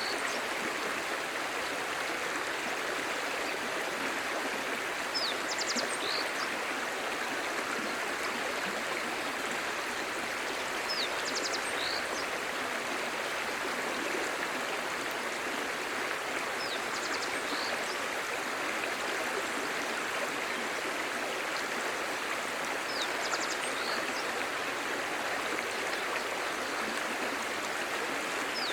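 A clear, shallow stream babbling steadily over stones. A short, high chirping call sounds above the water about every six seconds.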